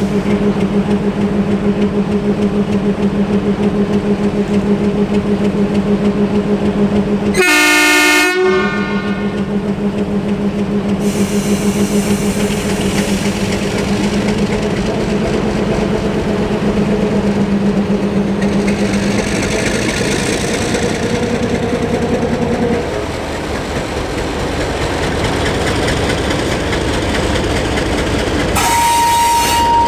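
Train running past with a steady, loud engine drone. There is a short pitched horn-like blast about eight seconds in, the drone drops away about 23 seconds in, and another brief signal sounds near the end.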